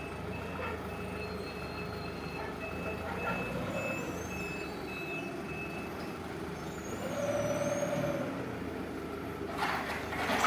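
Counterbalance forklift running, its high reversing alarm beeping rapidly for about the first six seconds. A short lower whine follows, and a loud rush of noise starts near the end.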